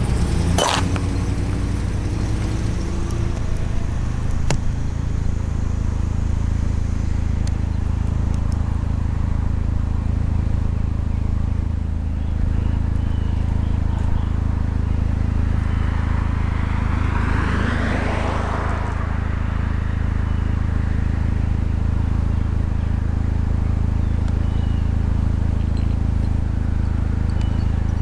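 Car engine running with a steady low hum, heard from close by, with a sharp click just under a second in and another vehicle passing, swelling and fading, around seventeen seconds in.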